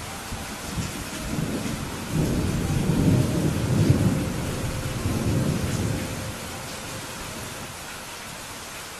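Steady rain hissing, with a roll of thunder rumbling in about a second in, swelling for a few seconds and dying away before the end.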